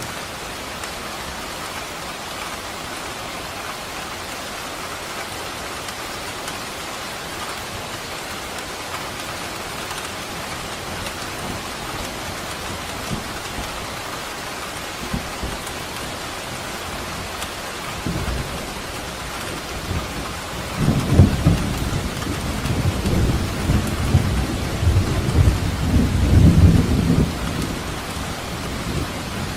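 Steady rain falling, with a low rumble of thunder that builds about two-thirds of the way through, rolls on for several seconds and then dies away.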